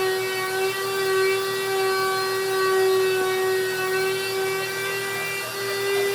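A high-speed electric power tool running steadily on wood, its motor giving a constant whine with a rushing noise underneath.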